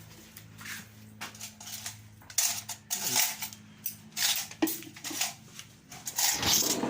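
Spoons and plates clinking and scraping during a meal of rice and viand, in a series of short irregular clatters. A low steady hum runs under the first few seconds.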